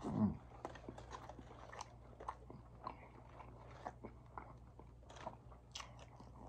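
Close-up mouth sounds of a person chewing a bite of chicken gyro in soft pita bread: a short, falling vocal hum at the start, then scattered small wet clicks and smacks of chewing.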